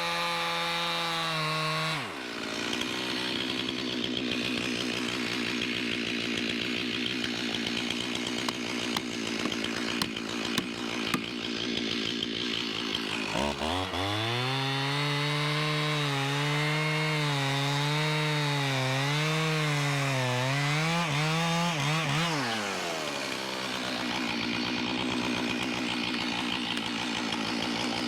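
Small gasoline engine cutting wood: it runs at high speed, drops to idle about two seconds in, revs up again near the middle with its pitch wavering under load for several seconds, then falls back to idle. A few sharp knocks come while it idles.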